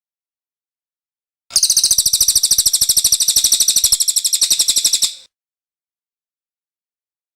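Cililin songbird singing one rapid, even trill of about four seconds, roughly a dozen high notes a second, starting about a second and a half in and stopping cleanly.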